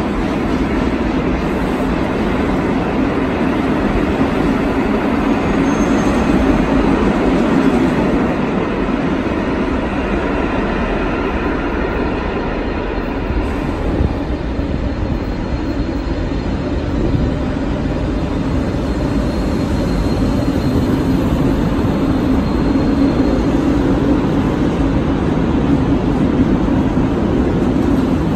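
Electric commuter train running along the rails at speed, heard on board: a steady rolling rumble of wheels on track with a continuous low hum.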